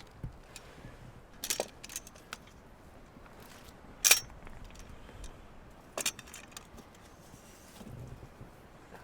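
Handheld litter picker clacking as dead rats are gripped and picked up: a few separate sharp clicks, the loudest about four seconds in, with fainter handling noise between them.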